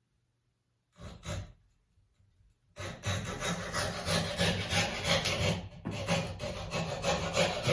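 A hand tool worked across a piece of elm wood: two brief scrapes about a second in, then steady quick back-and-forth strokes from about three seconds in.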